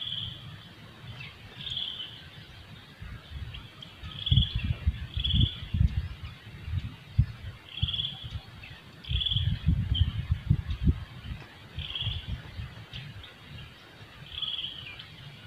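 A bird repeating a short, high call every second or two against forest ambience. Two bursts of low thumps and rumbling, about a third of the way in and again around two-thirds, are the loudest sounds.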